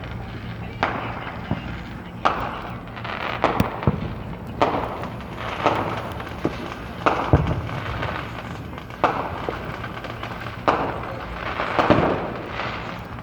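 Fireworks going off nearby: about a dozen sharp bangs, roughly one a second, many trailing a crackle, over continuous distant popping.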